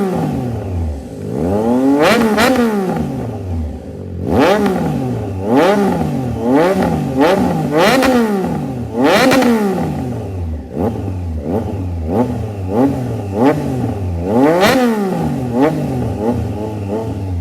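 Triumph Trident 660's inline three-cylinder engine through a full aftermarket exhaust system, revved over and over while standing still. There are over a dozen blips, a few long ones and many quick ones, and the pitch climbs and drops with each.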